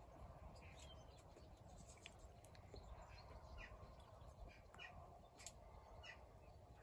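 Faint, scattered short bird chirps with a few sharp clicks over a quiet outdoor background.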